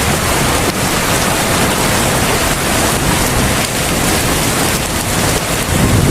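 Heavy rain falling in a steady, dense hiss, with a low rumble growing stronger near the end.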